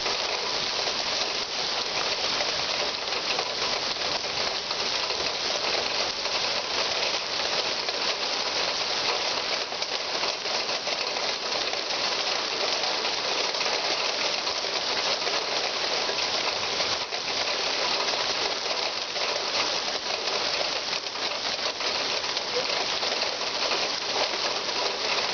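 Steady rain falling: an even, unbroken hiss of fine patter.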